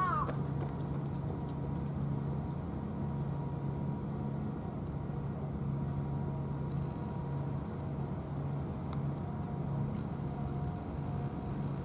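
A steady low engine hum, as of an idling motor, holding without change.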